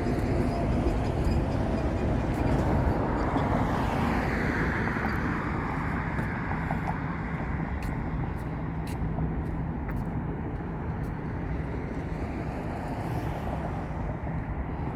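Steady low vehicle rumble that swells about three to four seconds in, with a slightly falling higher tone, then eases off gradually.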